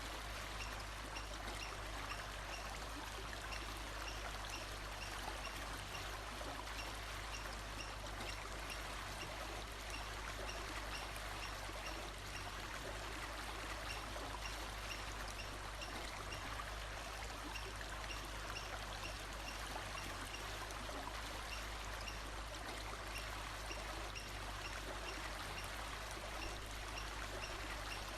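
Steady rush of flowing water like a stream, with faint high chirps repeating evenly, about one and a half a second.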